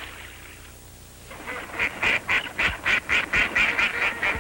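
A rapid series of short honking bird calls, about four or five a second, starting about a second and a half in after a quiet moment.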